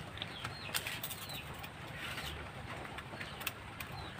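Quiet outdoor background with faint small-bird chirps, short falling calls heard a few times, and a few light clicks.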